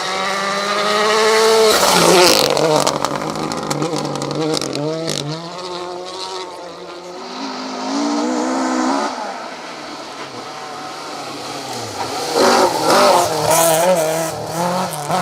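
Rally car engines at full throttle on a special stage. The revs climb and drop sharply on gear changes and lifts, with loud close passes about two seconds in and again near the end.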